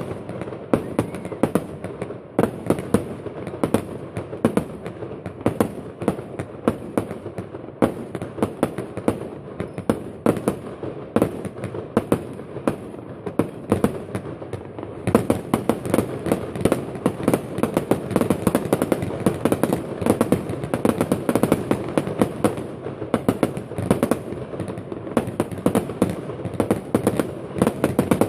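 Fireworks display: a rapid, continuous run of bangs and crackling pops, growing denser and louder about halfway through.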